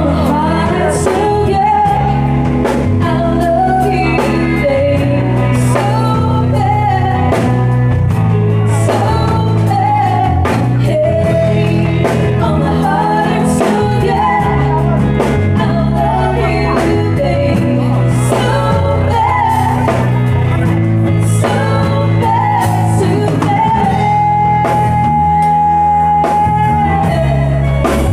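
A band playing a song: a lead singer over a steady bass line and drum kit, the singer holding one long note near the end.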